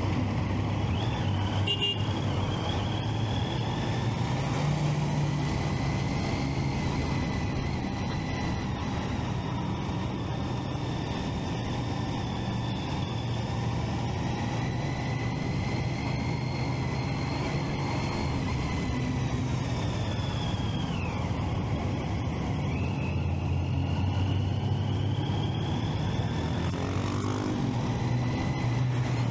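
Triumph Street Triple 675's inline three-cylinder engine running under way, over a steady rush of riding noise. A high whine drops away about two-thirds of the way through, then climbs again over the next few seconds.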